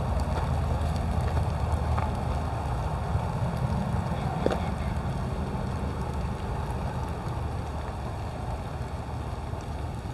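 Wind buffeting the microphone: a steady low rumble with a few faint ticks, easing slightly toward the end.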